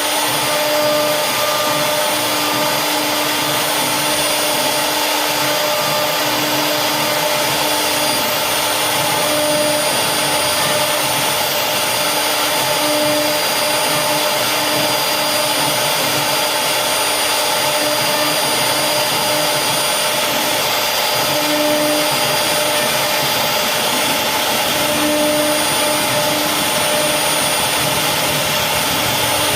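CNC wood router running steadily, its spindle giving a high, constant whine over a dense machining noise, with a lower hum that swells and fades every few seconds.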